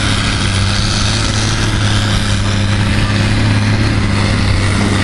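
Pulling tractor's engine running loud and steady at a constant pitch, with a broad rushing noise over its low drone.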